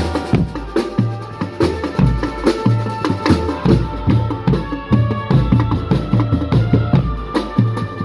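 Drum band playing a rhythmic song: rapid, even drum strokes over deep bass notes, with a melody on top.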